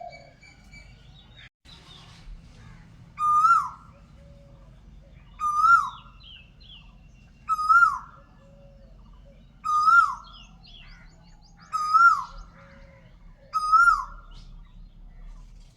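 A bird's loud call, a short note that rises and then drops, repeated six times about every two seconds, with softer chirps of other birds between.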